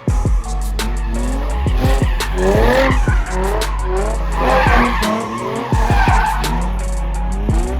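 Car engine revving up again and again while its tyres squeal and skid, the squeal swelling in the middle, over a steady deep bass hum.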